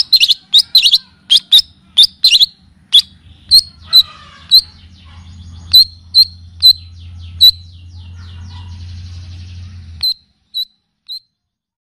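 Recorded songbird calls: sharp, high chirps in quick runs at first, then spaced to about two a second, over a faint low hum. The hum cuts off about ten seconds in, and three last single chirps follow.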